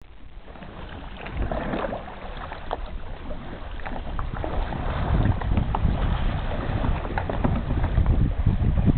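Wind buffeting the microphone in a heavy low rumble that grows louder over the first few seconds, with scattered light splashes of water around the RTM Tango kayak.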